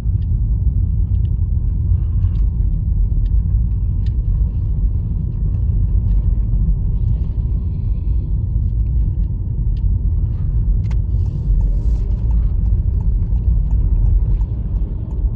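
Steady low rumble of tyres and road heard inside the cabin of a moving 2020 Honda Fit, with occasional faint ticks.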